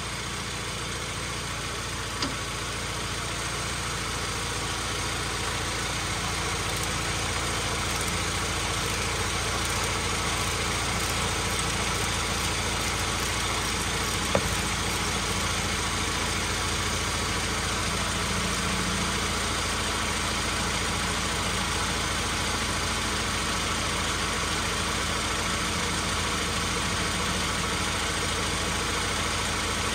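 Chevy Cobalt engine idling steadily in park, heard from underneath the car, while the transmission fluid level is checked at the check plug with the engine running. Two brief clicks, about two seconds in and near the middle, come from the ratchet on the plug.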